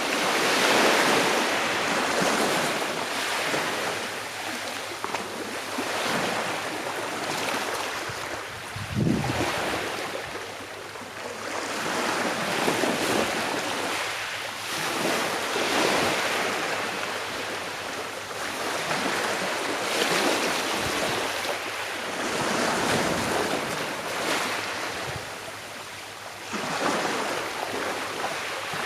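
Calm sea waves breaking and washing on a shore, the surf swelling and easing every few seconds.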